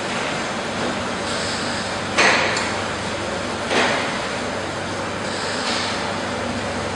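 Steady background noise with two short bursts of hissing about a second and a half apart.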